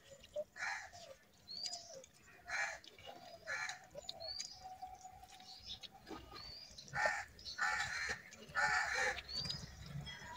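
A small bird repeats a short rising chirp about once a second. Louder short noisy sounds and other bird calls come in between.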